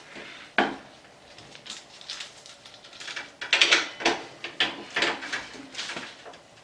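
Metal brake-caliper parts being handled and worked by hand: an irregular run of clicks, knocks and scrapes, busiest about three and a half to four seconds in.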